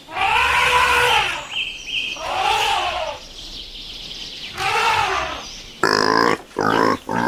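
Animal calls: three drawn-out cries, each about a second long and rising then falling in pitch, followed about six seconds in by quicker, harsher calls.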